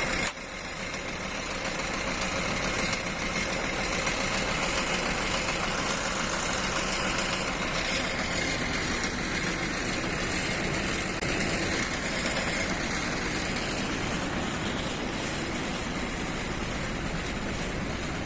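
Nissan UD PK260 head tractor's diesel engine idling steadily.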